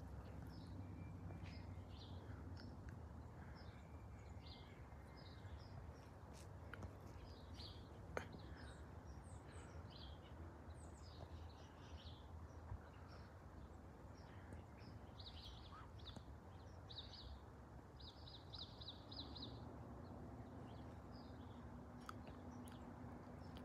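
Small birds chirping in short, scattered calls, with a quick run of about five notes near the end, over a faint steady low rumble; a single sharp click about eight seconds in.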